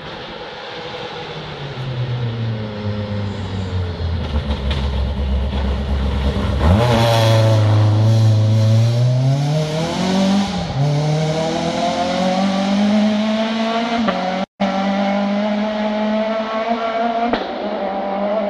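Citroën car driven hard along the road, its engine revving up and dropping back several times as it changes gear. It is loudest about seven to ten seconds in, and the sound cuts out for a split second about two-thirds of the way through.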